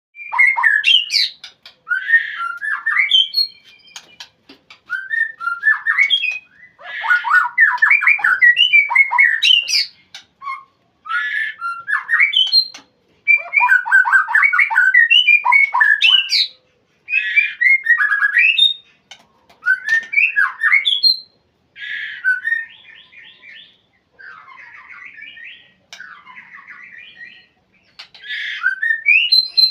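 White-rumped shama (murai batu) singing a loud challenge song at a rival: bursts of rapid, varied whistles mixed with harsh rattling notes, broken by short pauses.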